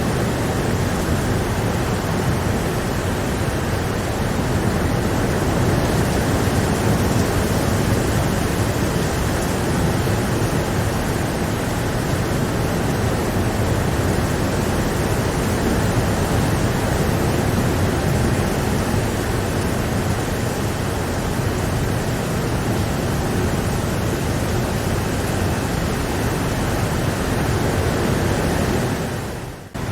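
Steady heavy rain: a dense, even hiss with no separate drops standing out. It briefly fades out and back in near the end.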